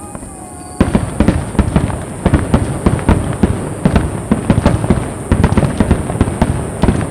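Aerial fireworks bursting in a rapid-fire barrage: about a second in, a dense run of sharp bangs begins, several a second, and carries on without a break.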